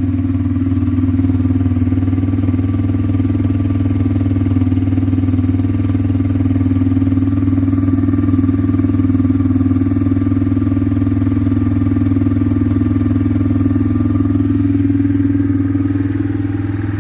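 Yamaha Kodiak 450 ATV's single-cylinder four-stroke engine idling steadily on half choke, warming up after a cold start.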